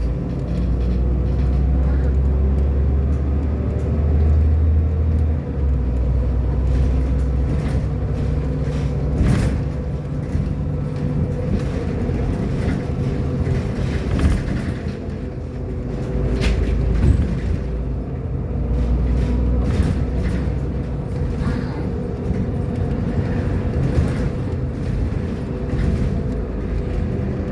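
Irisbus Agora L articulated city bus running along its route: a steady low engine rumble with a faint constant whine and scattered rattles and knocks. The low engine note shifts about five seconds in.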